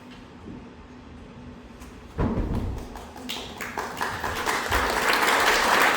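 Audience applause starting a few seconds in and swelling to loud, steady clapping, just after a sudden low thump.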